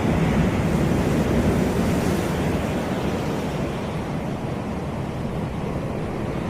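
Surf washing onto a sandy beach, a steady rush of breaking waves that swells in the first couple of seconds and eases off toward the end, with wind buffeting the microphone.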